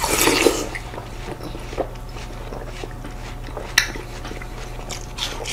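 Biting into and chewing juicy watermelon slices: a wet bite at the start, then softer chewing with a few small clicks, one sharper click a little under four seconds in.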